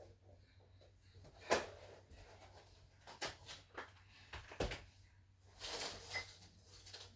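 Handling of parts and packaging: a series of sharp knocks and clacks, the loudest about a second and a half in, followed by a rustle a little before the end.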